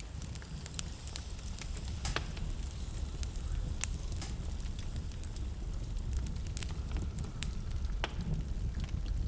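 Wood fire burning in a fireplace: a steady low rumble of flames with frequent irregular sharp crackles and pops, a few louder snaps among them.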